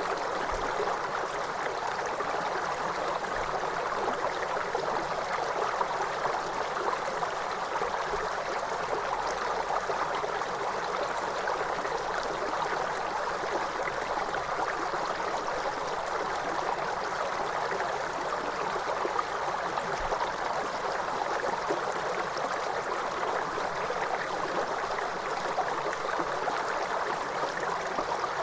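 Waterfall: water rushing and splashing in a steady, unbroken hiss, with no change in level.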